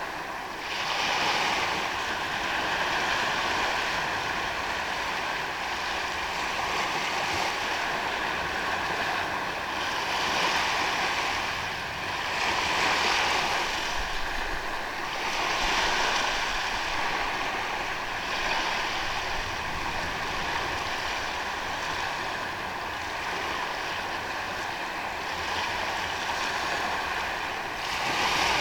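Ocean waves breaking and washing on a beach, a steady surf hiss that swells every few seconds as each wave comes in.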